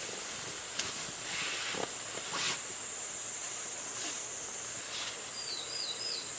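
Insects droning in a steady high-pitched hiss, with a few sharp clicks and a short run of small chirps near the end.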